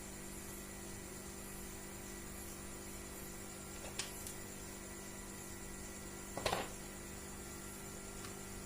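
Steady electrical hum, with a sharp click about four seconds in and a short clatter about six and a half seconds in.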